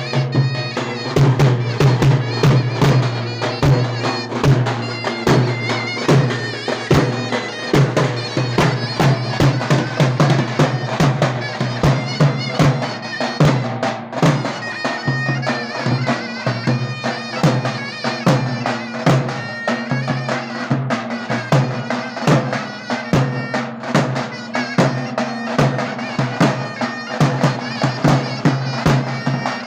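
Davul and zurna playing a folk dance tune: the shrill double-reed zurna carries the melody over the davul's steady, densely packed drum beats.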